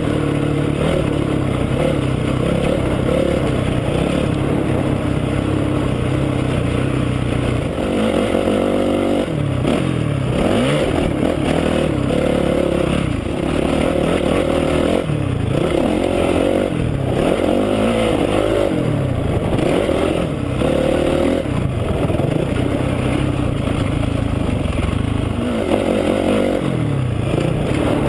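Honda CRF450R dirt bike's single-cylinder four-stroke engine running on a motocross track: held at a fairly steady pitch for the first several seconds, then repeatedly revving up and dropping off the throttle again and again.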